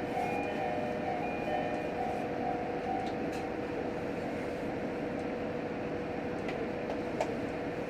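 Inside a JR Hokkaido H100 diesel-electric railcar standing at a station: a steady hum from its running engine and equipment, with a few faint clicks.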